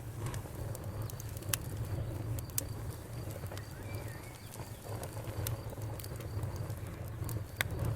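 Wood fire crackling in a fireplace: irregular sharp pops and snaps over a steady low rumble of burning, with one louder snap near the end.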